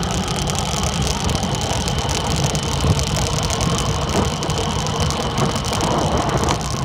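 Dirt bike engine running steadily while riding, holding an even pitch with no clear revving up or down.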